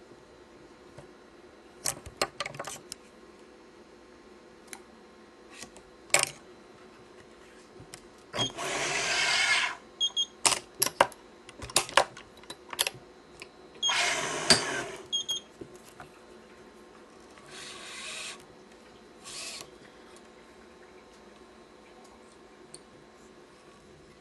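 Badminton string (Yonex Nanogy 99) pulled through the racket's woven strings with a rasping zip, twice for about a second each and twice more faintly, among sharp clicks and taps of clamps and tools.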